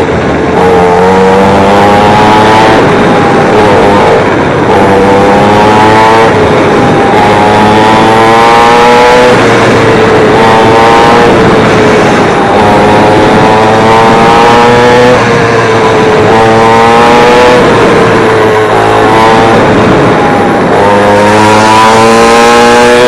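Warmed-up Xpro 50cc mini dirt bike engine running loud under way, its pitch repeatedly climbing as it revs out and dropping back, about every two to three seconds.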